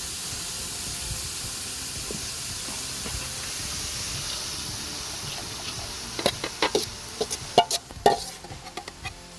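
Chopped vegetables and egg sizzling in oil in a large pan for egg fried rice, a steady hiss. About six seconds in, a quick run of sharp clanks and scrapes of a utensil against the pan, the loudest sounds here, as the cooked rice goes in and is stirred.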